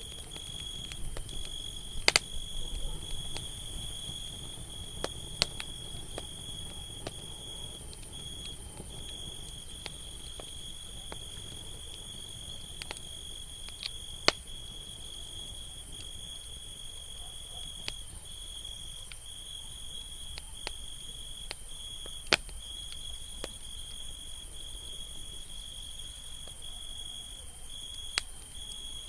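Campfire crackling, with sharp pops of burning wood, the loudest about two seconds in and again a few times later, over a low steady rush of the flames. Behind it a cricket trills steadily on one high note, pausing briefly now and then.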